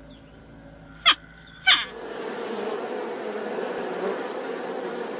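Two short barks about half a second apart, then a steady buzzing of insects that takes over about two seconds in.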